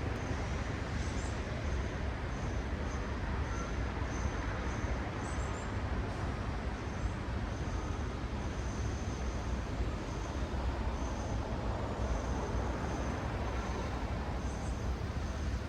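Steady city road traffic: cars passing in a continuous rumble of engines and tyres, with short high chirps repeating faintly above it.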